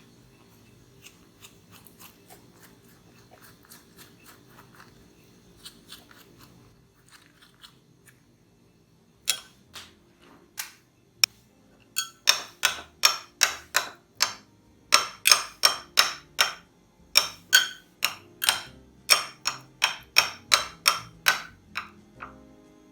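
Kitchen food-preparation sounds: faint clicks and handling at first, then from about nine seconds in a long run of sharp utensil strikes, about two to three a second, each with a slight ring.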